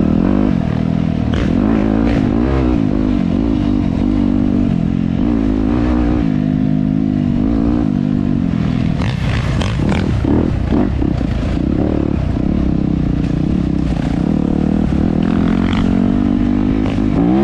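Dirt bike engine running under changing throttle, its pitch rising and falling again and again as it revs up and backs off. A run of knocks and rattles comes a little past the middle.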